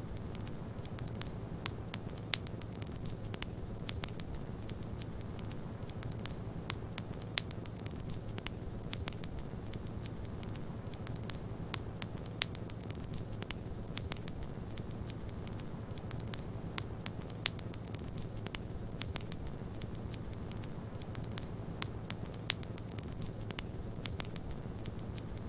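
Wood fire crackling in a fireplace, with frequent sharp pops and snaps at irregular intervals over a steady low rumble.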